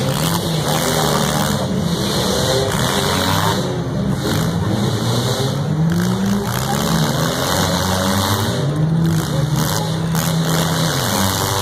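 Four-cylinder compact car engines revving hard, their pitch climbing and falling again and again as the derby cars accelerate and back up, over a continuous noisy din.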